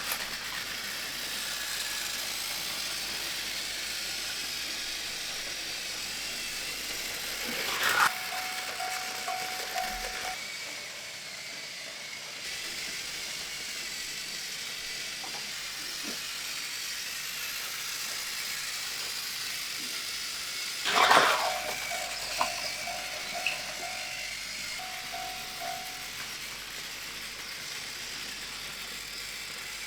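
Battery-powered Plarail plastic toy trains running on their track under background music. Twice, about eight seconds in and again after about twenty-one seconds, a short clatter comes, followed by a pulsing electronic beep.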